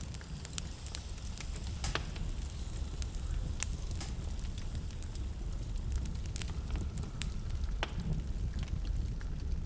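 Wood fire burning in a fireplace, with a steady low rumble of flames and sharp, irregular crackles and pops.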